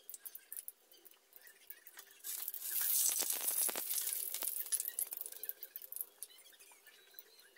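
Squash fritter (tortang kalabasa) frying in shallow oil in a steel wok with light crackling. About two seconds in, the sizzle surges loud and dense for a few seconds as the fritter is flipped with a spatula, then it settles back to a light crackle.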